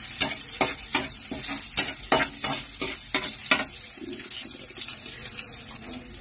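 Chopped garlic and onion sizzling in hot oil in a steel wok. A slotted metal spoon scrapes and clinks against the pan about three times a second while stirring. The stirring stops a little over halfway, leaving the steady sizzle.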